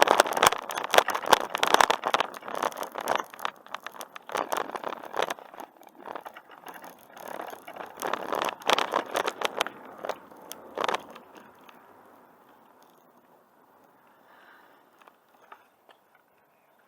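Bicycle ride noise: dense, irregular clattering and scraping as the bike and its camera jolt over the trail surface, fading out about twelve seconds in.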